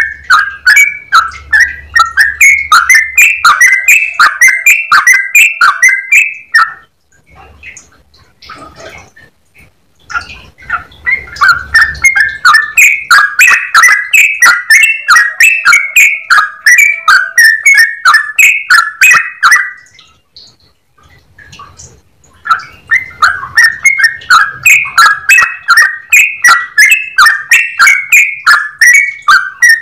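Yellow-vented bulbul singing in long rapid runs of repeated bright, bubbling notes, about three a second. There are three bouts, broken by short pauses at about 7 seconds in and again at about 20 seconds.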